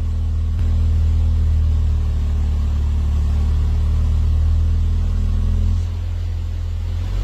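BMW 420i's turbocharged four-cylinder engine idling through an aftermarket valved exhaust: a steady, low exhaust rumble that turns a little quieter about six seconds in.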